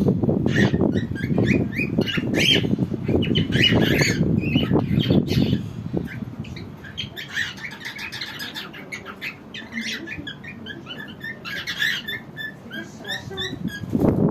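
Small birds chirping and calling repeatedly, many short calls overlapping, over a low rumbling noise that is louder in the first six seconds and then drops away.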